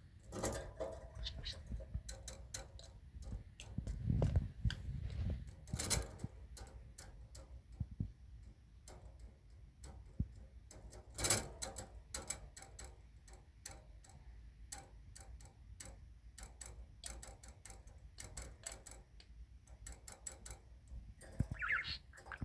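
Irregular small clicks and taps from a budgerigar moving about, with one short rising chirp near the end.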